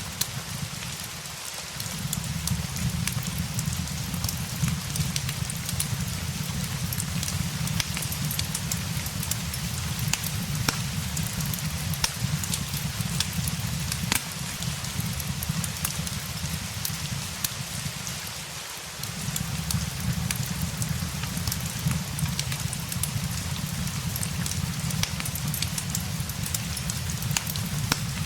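Steady rain with the scattered sharp pops and crackles of a fireplace over it, on a low rumble that drops out briefly twice, once near the start and once about two-thirds of the way through.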